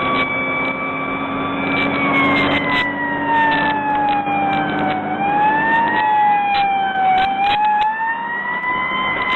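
Fire engine siren wailing. Its pitch sinks slowly for about five seconds, rises, dips again about seven seconds in, and climbs back.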